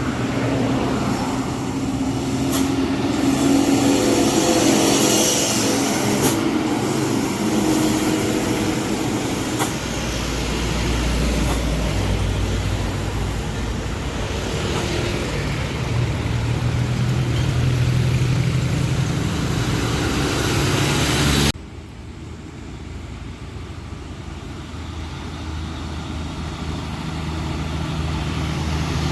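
Heavily loaded trucks climbing a steep hill, diesel engines labouring steadily, with passing traffic noise and a few short sharp hisses in the first third. The noise drops suddenly about two-thirds of the way through, then a truck engine builds again toward the end.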